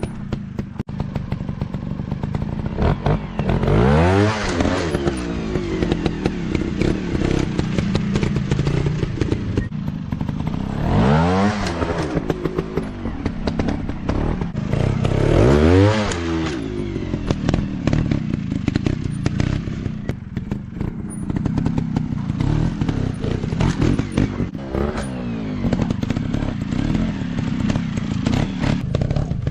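Dirt bike engine running, with sharp revs that rise and fall back about 4, 11 and 16 seconds in and a smaller one near 25 seconds. Clattering and knocks run underneath.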